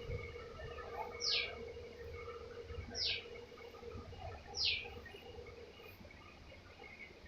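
A bird calling three times, each a short whistle sliding down in pitch, about a second and a half apart, over a steady hum and faint chirping.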